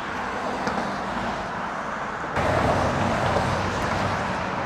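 Road traffic rushing past steadily, with a louder vehicle passing close from about halfway through.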